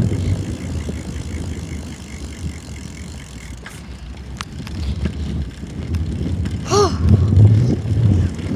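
Bicycle being ridden, with a steady low rumble throughout. There is a run of soft, even ticks at about four a second during the first few seconds, a couple of single clicks, and a short rising-and-falling squeak near the end.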